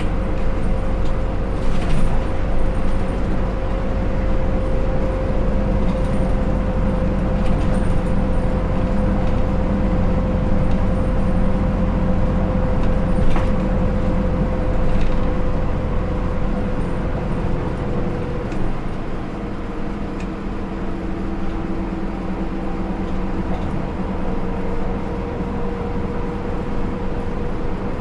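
Hino Rainbow II route bus with an Isuzu 4HK1-TCH four-cylinder turbo-diesel and Aisin automatic gearbox, heard from inside while under way. The engine runs steadily with a low rumble. About two-thirds of the way through, the engine note drops and eases, then picks up again near the end.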